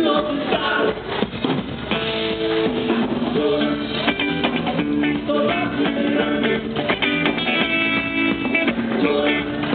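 Live band playing through a PA, with strummed guitar and drum kit.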